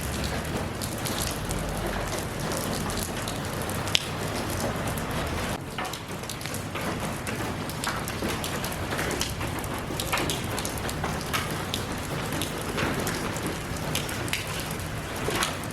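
Steady rain falling, with many individual drops ticking against a surface and one sharper drop tick about four seconds in.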